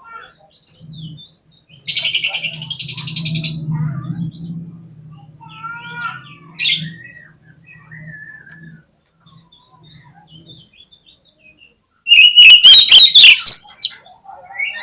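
Oriental magpie-robin (kacer) song used as a lure: a rapid, harsh burst of notes about two seconds in, softer whistled notes in the middle, and a louder buzzy chatter near the end. A faint low hum runs under the first half.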